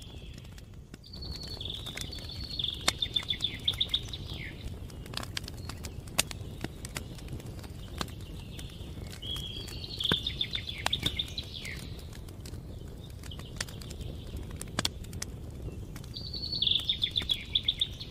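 A songbird sings the same quick trilled phrase, ending in a downward slur, three times about seven seconds apart. Behind it, a campfire crackles with scattered sharp pops over a low steady rumble.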